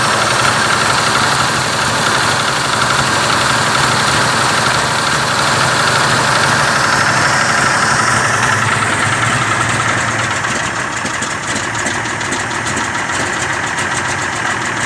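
1946 Chevrolet truck's 235 cubic-inch inline-six engine idling steadily, a little quieter after about ten seconds.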